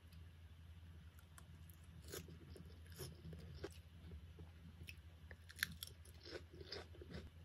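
Close-up chewing of a mouthful of fresh salad greens and corn: soft, irregular crunches that begin about two seconds in, one sharper crunch a little past the middle.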